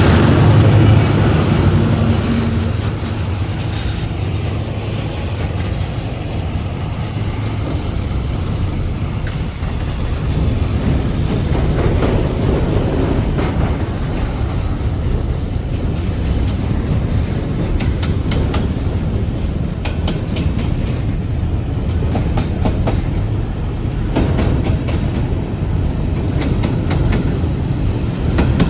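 Train rolling past: a heavy low drone fades over the first few seconds, then the cars run by with a steady rumble and repeated clickety-clack of wheels over rail joints.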